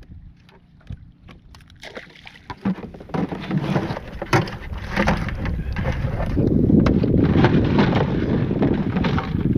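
Water and wind noise around a kayak, with wind buffeting the microphone. It is quiet at first with a few light knocks, then builds to a loud, rough rush from about two seconds in.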